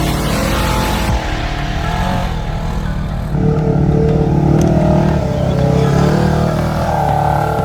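Side-by-side UTV engine running and revving up and down under throttle, with a louder surge about three and a half seconds in.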